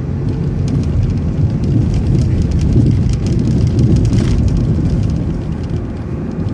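City transit bus driving, heard from inside: a steady low rumble of engine and road noise with light rattling clicks, and a short hiss about four seconds in.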